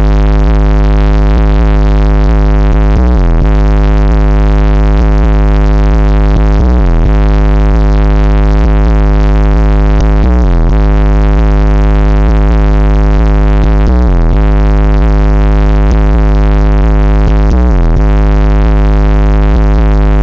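Bass-heavy music played very loud through a competition car audio system's subwoofers, with a deep bass drop that repeats about every three and a half seconds.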